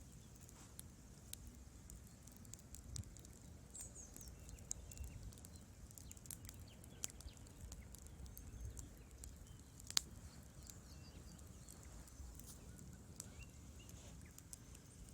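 Wood fire in a fireplace crackling: scattered sharp pops and snaps from the burning logs over a soft low rumble, with one louder pop about ten seconds in.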